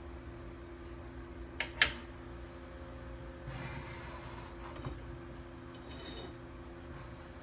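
Hard objects being handled on a workbench: two sharp clicks about two seconds in, the second the loudest, then a short rubbing or scraping, over a steady low hum.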